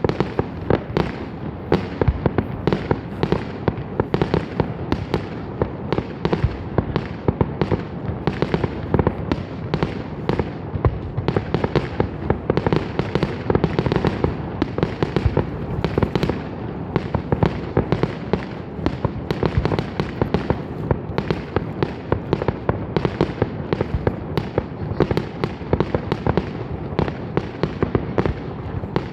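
Fireworks shells bursting close by in rapid succession: a steady barrage of sharp bangs, two or three a second, over a continuous low rumble of echoing reports.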